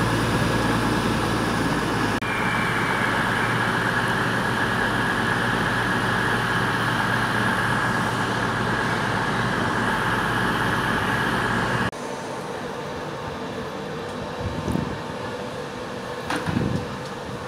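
CrossCountry Class 220 Voyager diesel multiple unit running at the platform with a steady low engine drone. About two seconds in it gives way to steady train noise with a high whine. About twelve seconds in it cuts to quieter noise from a passing passenger coach, with two brief knocks near the end.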